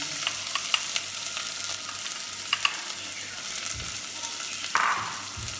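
Onions frying in hot oil with whole spices in a pan: a steady sizzle with scattered small crackles and pops, and a brief louder burst near the end.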